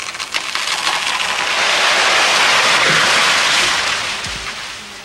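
A small tree falling, its crown and branches crashing through the surrounding foliage in a rush of leaf noise that swells, peaks, then dies away, with a low thud near the end as it comes down. A few sharp knocks at the start.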